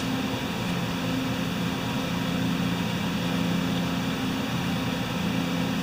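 Steady low machine hum with a few even tones and no change in pitch.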